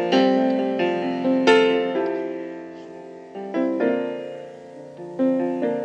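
Piano playing a slow instrumental passage: notes and chords struck and left to ring out, with a fresh strike every second or two.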